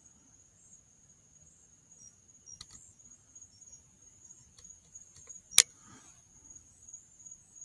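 A steady, high-pitched chorus of night insects trilling, with one sharp, loud click a little past halfway.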